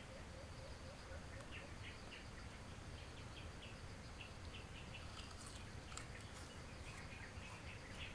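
Faint outdoor ambience: small birds chirping here and there over a low, steady background rumble.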